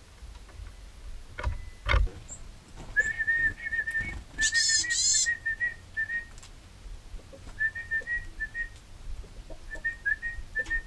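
A man whistling runs of short, trilled notes at one steady pitch to call wild birds, with a brief harsh bird call about halfway through. A knock sounds about two seconds in.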